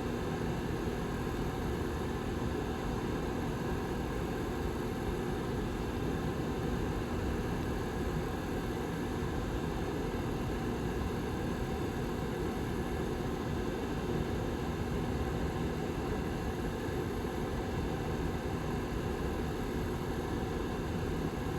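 Rear fan of a Lasko Model 755320 ceramic tower heater running steadily: an even rush of moving air with a faint constant hum underneath.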